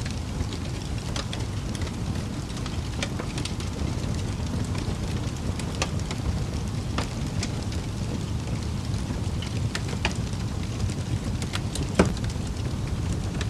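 Wood fire burning in a fireplace: a steady low rumble with scattered crackles and small pops, and one louder pop near the end.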